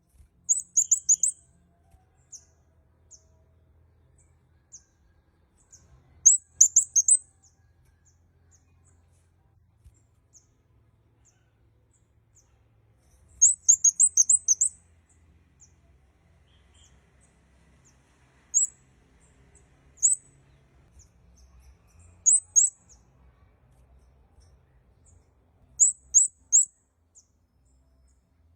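Red-headed kemade (kemade kepala merah) calling: very high, thin chirps given in quick clusters of three to six notes, with single chirps and faint short notes between them, about seven clusters in all.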